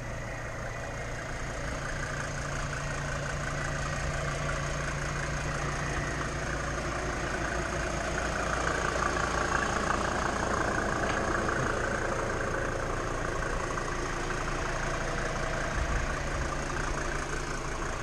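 Mercedes G-Class 290's 2.9-litre five-cylinder turbo diesel idling steadily.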